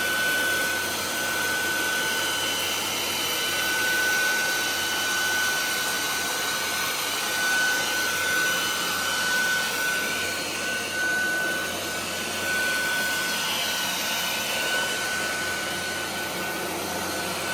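Nvriow cordless stick vacuum cleaner running steadily on a higher suction setting. Its steady high whine sits over a rushing hiss of air.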